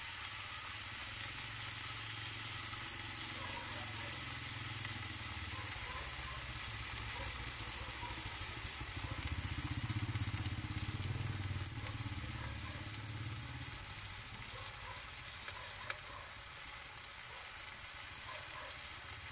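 Potato slices sizzling steadily in hot oil in a frying pan, with a few light taps as metal tongs turn the slices. A low rumble sits underneath and swells around the middle.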